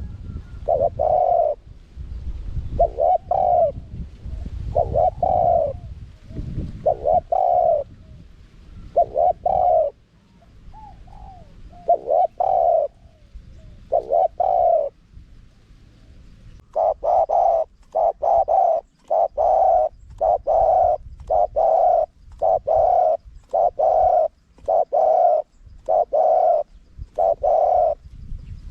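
Spotted dove cooing: short, low coos repeated at uneven gaps, then a quicker even run of about fifteen coos over the last eleven seconds. A low rumble lies under the first few seconds.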